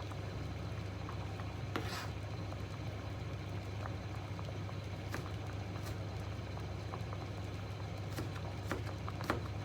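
Pot simmering on the stove: scattered small pops and ticks over a steady low hum.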